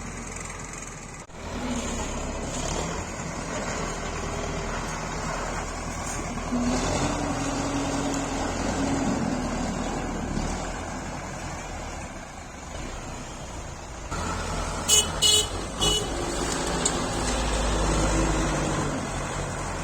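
Tractor engine running, its pitch rising and falling as it is worked. Three short, loud horn toots come about fifteen seconds in.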